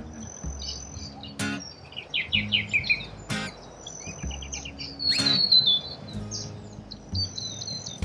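Small birds chirping and calling in quick repeated notes and short trills, over background music with low sustained notes and a beat about every two seconds.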